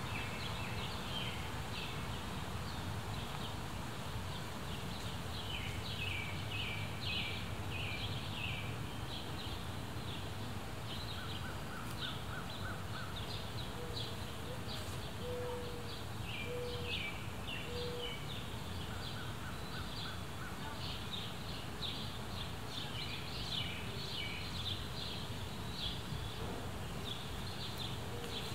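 Backyard birds calling: clusters of quick high chirps that keep recurring, and a short series of four lower notes about midway, over a steady low background rumble.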